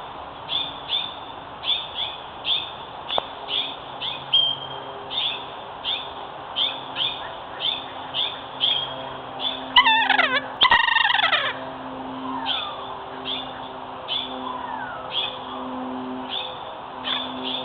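Birds calling: a short high chirp repeated about twice a second, with a louder burst of two falling, many-noted calls about ten seconds in.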